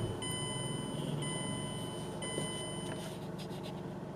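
A 2013 Mazda Miata's 2.0-litre four-cylinder idling steadily just after starting. A high electronic tone sounds three times over it, each for under a second.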